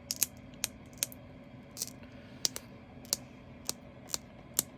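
Light, sharp plastic clicks and taps, about ten at uneven intervals, from handling small plastic containers of leftover diamond painting drills.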